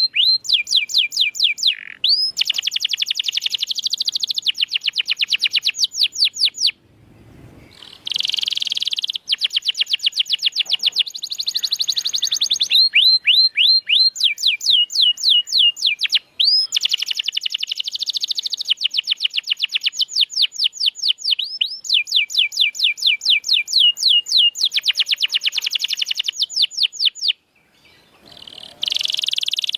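Domestic canary singing long, fast rolling trills, each a run of quick repeated chirps, switching from one trill type to the next, with brief breaks about 7, 16 and 27 seconds in.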